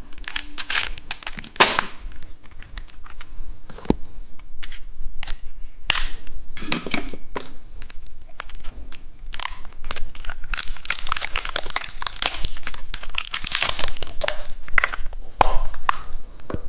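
A plastic candy wrapper crinkling and tearing as it is handled and opened by hand: irregular sharp crackles, thickening into a longer stretch of crinkling a little past the middle.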